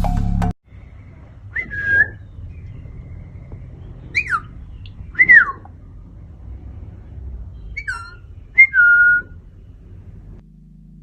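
Himalayan parrots giving five short whistled calls spread over several seconds, each a quick gliding note, most of them falling in pitch.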